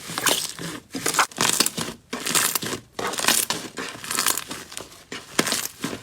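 Slime being squeezed and pressed by hand: crackly, sticky squishing that comes in repeated bursts about once a second.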